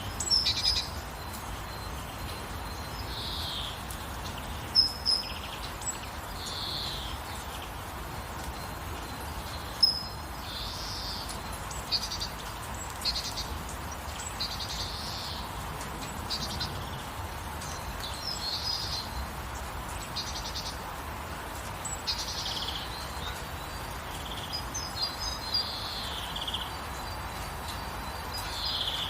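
Birds calling and chirping, short high calls every second or two with a few sharper, louder chirps, over a steady even hiss of gentle rainfall.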